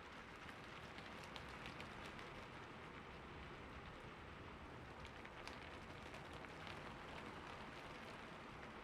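Steady rain falling: a soft, even hiss with individual drops ticking now and then.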